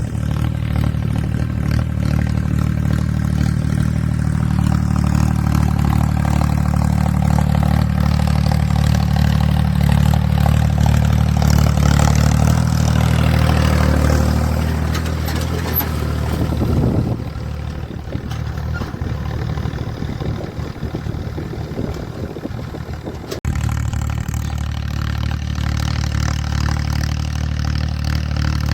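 Ford 3600 tractor's three-cylinder diesel engine running steadily under load while pulling a disc harrow. It turns noticeably quieter a little past halfway.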